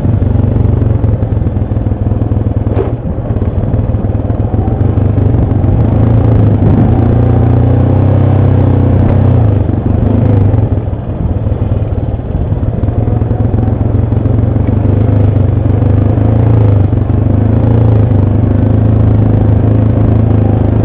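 ATV engine running steadily under way on a rough trail, its pitch shifting a little with the throttle, with knocks and rattling from the machine over the ground.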